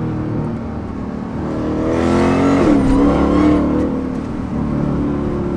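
A 1,000-horsepower supercharged Dodge Charger V8 pulling under acceleration. Its pitch climbs for a second or so, then drops sharply about three seconds in, as at a gear change, and runs on steadily.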